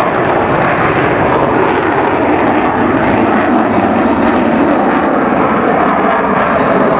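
Loud, steady engine noise of a fixed-wing aircraft in flight.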